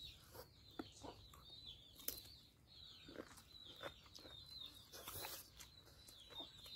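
Faint wet chewing and lip-smacking from eating curried chicken by hand, a string of short irregular clicks and smacks. Faint high bird chirps repeat in the background throughout.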